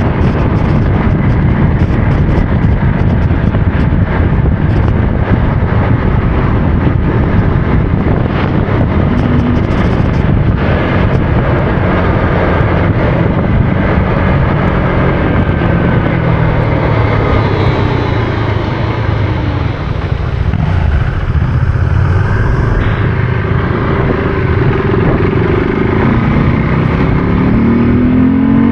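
Motorcycle engine running under way over a dense, steady rumble. Its pitch sags about two-thirds of the way through, then climbs sharply near the end as it accelerates.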